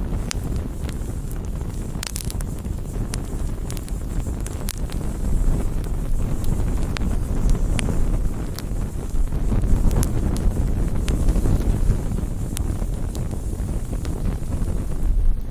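Wood bonfire burning: a steady low rumble with scattered sharp crackles and pops throughout. It stops abruptly at the end.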